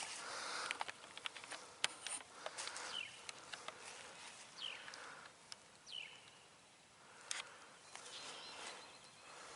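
Crackles and rustles of dry leaves in woodland, with three short, high, downward-sweeping bird chirps a second or two apart.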